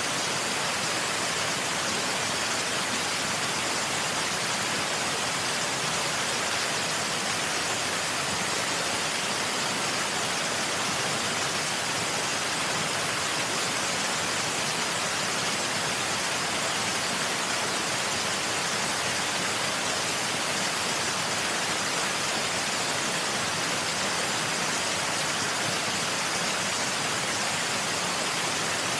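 Waterfall rushing as a steady, unchanging hiss, bright and thin with little bass.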